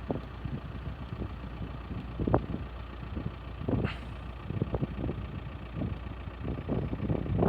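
Wind buffeting the microphone in irregular gusts, a low rumble with short surges.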